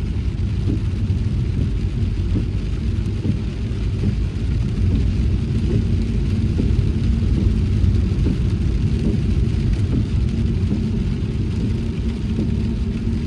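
Car driving on a wet road: a steady low rumble of road and engine noise with a faint hiss of rain.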